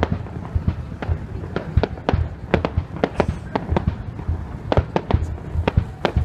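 Aerial fireworks shells bursting in a rapid, irregular barrage, several sharp bangs a second over a low rumble.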